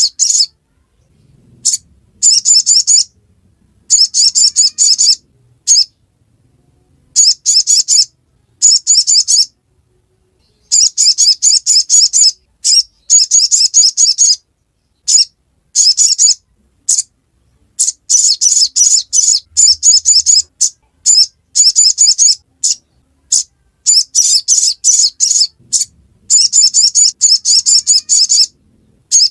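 Little spiderhunter (sogok ontong) giving its rapid, high-pitched chattering call in repeated bouts of one to two seconds, with short silent pauses between them. The bouts come thicker and longer in the second half.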